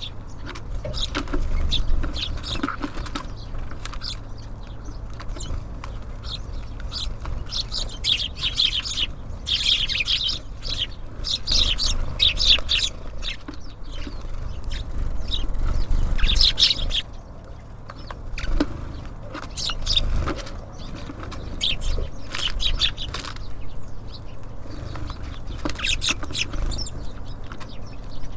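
Small songbirds at a feeder chirping and calling in rapid short notes, with the flutter of wings among them, over a steady low rumble.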